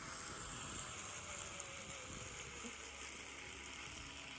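Zip-line trolley pulleys running along the steel cable: a steady hissing whir with a faint tone that sags slightly in pitch.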